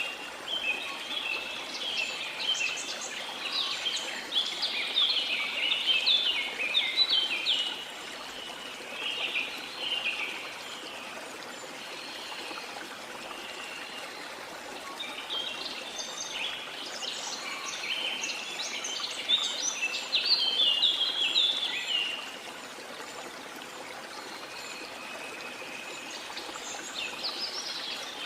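Steady rush of a waterfall with rainforest birds singing over it in busy bursts of quick chirps and trills, thickest in the first eight seconds and again from about fifteen to twenty-two seconds in.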